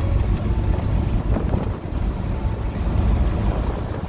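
Steady low rumble of a car driving down the road, with wind buffeting the microphone.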